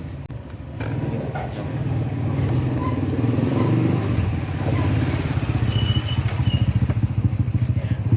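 Mazda 3's 1.8-litre gasoline four-cylinder engine running steadily, with a fast even pulse and a few light clicks near the start.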